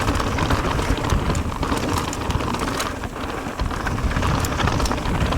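Mountain bike riding fast on a rough dirt trail: steady rushing wind noise on the camera microphone over tyres rolling on dirt and rock, with many small clicks and rattles from the bike.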